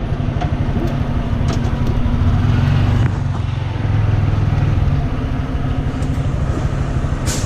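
Honda Grom's 125 cc single-cylinder engine running under way, its note shifting a couple of times as it rides.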